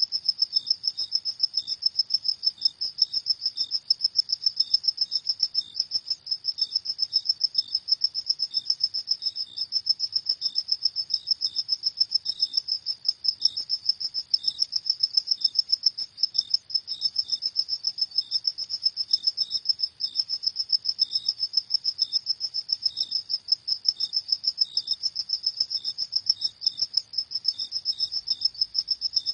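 Crickets chirping in a fast, steady, high-pitched pulse, with a second, fainter and more spaced chirp just below it.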